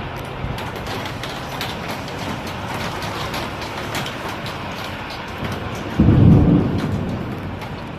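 Tornado storm wind: a steady rushing noise dotted with many small sharp ticks. About six seconds in comes a sudden, loud, low rumble that fades over about a second.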